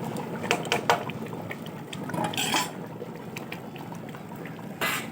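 A ladle stirring a pot of simmering chicken curry, the thick liquid sloshing, with a few sharp clinks of the ladle against the pot in the first second.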